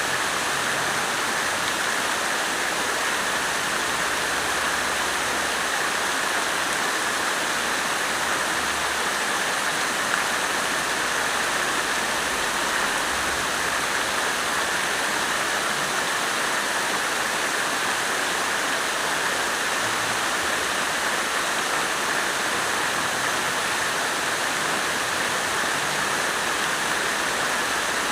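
Water fountain splashing steadily, falling water making an even, unbroken rush.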